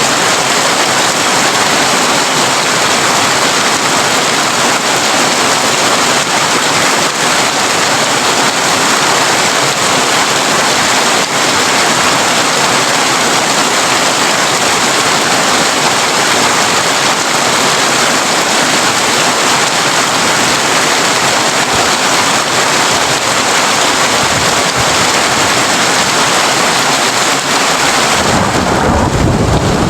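Heavy rain drumming steadily on a corrugated tin roof. Near the end a low rumble of thunder sets in under the rain.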